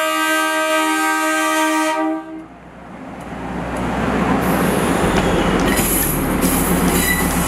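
Train horn sounding one long chord blast that cuts off about two seconds in, followed by the rumble of a train building up over a couple of seconds and then running past steadily.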